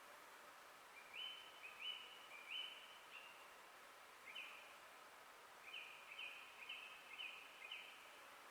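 A songbird singing a series of short, clear whistled notes, each sliding quickly up and then holding. The notes come in a group of three, a single one, then a quicker run of five near the end, over a faint, steady forest background.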